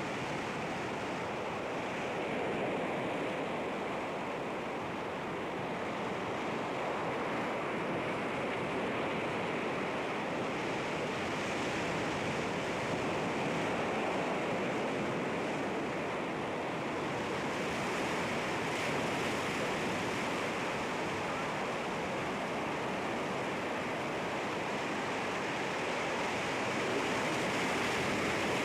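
Sea waves breaking against rocks, a continuous rush of surf that swells and eases gently every few seconds.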